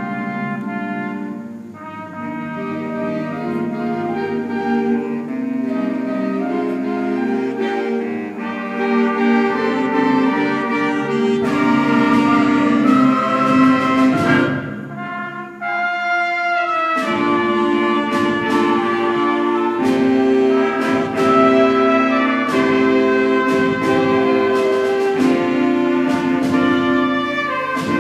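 School concert band playing, with brass and woodwinds sounding held chords and moving lines. It drops back briefly about halfway through, then comes in fuller, with sharp percussion hits.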